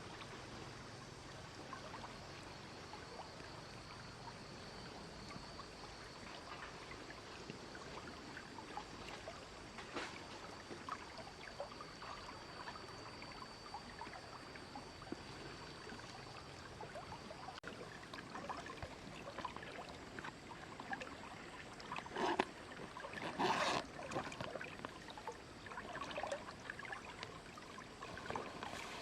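Water trickling and splashing, with scattered small clicks and a few louder splashes or knocks near the end. A faint steady high tone runs through the first half or so.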